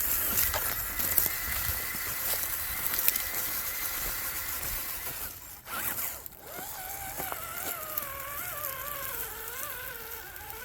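CJ7 RC crawler's small electric motor and drivetrain whining as it drives, with scattered clicks. The whine cuts out briefly around the middle, then comes back wavering up and down in pitch with the throttle.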